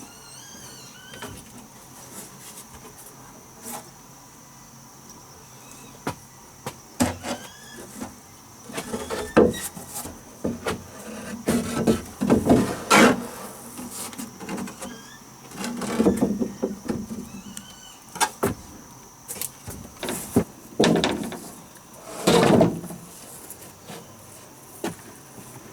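Wood being handled in building work: irregular knocks and longer scraping or creaking from about six seconds in, loudest in several clusters. A few short chirps come in the first seconds over a steady high-pitched hum.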